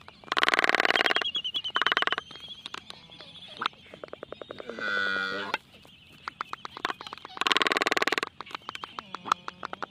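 Black-footed albatrosses in courtship display: bursts of rapid bill clattering, a drawn-out mooing groan about halfway through, and a quick run of bill clicks near the end.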